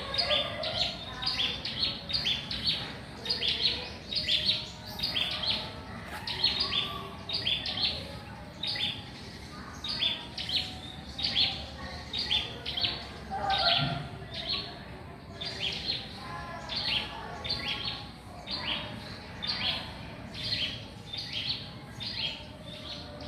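A small songbird calling loudly and persistently: short, high, sharp chirps repeated about two to three times a second, often in quick pairs or triplets.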